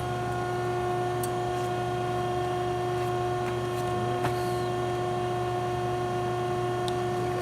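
Steady machine hum with several constant tones, unchanged throughout, and a few faint clicks.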